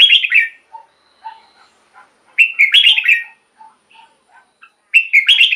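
Red-whiskered bulbul singing: short, loud warbled phrases repeated about every two and a half seconds, with soft scattered notes between them.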